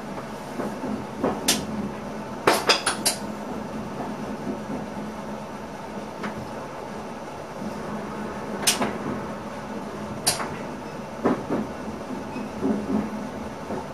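Cab interior of an NS ICM electric multiple unit running along the line: a steady rumble broken by sharp clacks and knocks, with a quick run of four about two and a half seconds in and single ones later.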